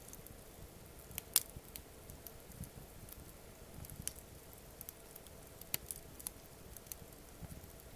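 Wood campfire crackling: scattered sharp pops at irregular intervals, the loudest about a second and a half in.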